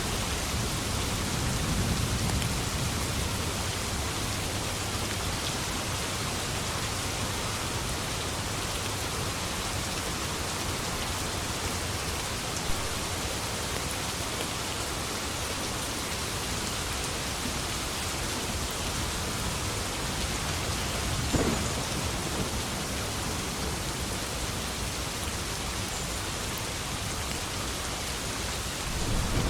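Steady rain falling, with thunder rumbling low in the first few seconds and another roll of thunder building at the very end.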